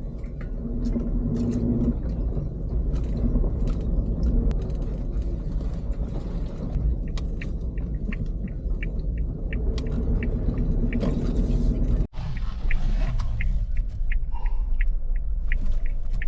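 Low steady rumble of a car driving. A light, regular ticking of about two a second comes in partway through.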